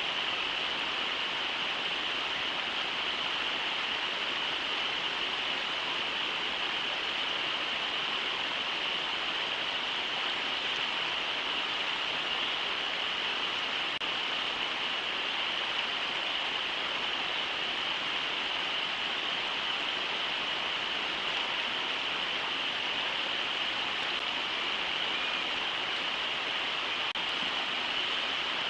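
Steady rush of river water running over shallow rapids (riffles).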